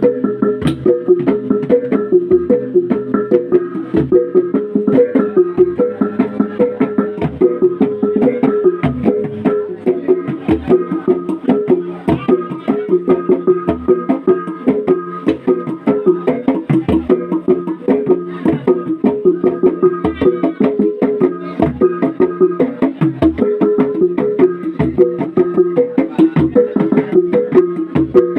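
Traditional Sumba gong ensemble playing a fast, interlocking rhythm of pitched metal strokes, with a deep low stroke about every second and a half.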